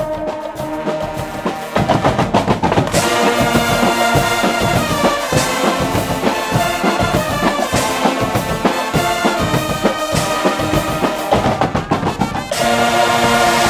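Guggenmusik band playing loud brass with drums and cymbals. The full band comes in about two seconds in, and near the end it swells into a loud held chord.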